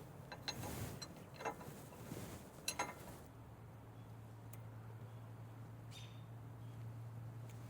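A few light clicks and taps from hand tools and parts being handled, then a steady low hum from about three seconds in.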